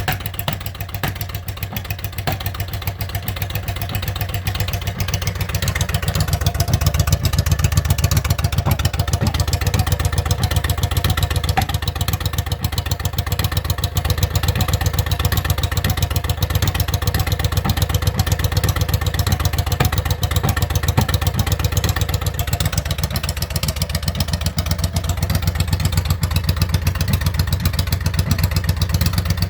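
2000 Yamaha V-Star 650's V-twin running at idle through straight pipes, warming up after a cold start: a steady, deep, loud exhaust pulse that grows a little louder about six seconds in.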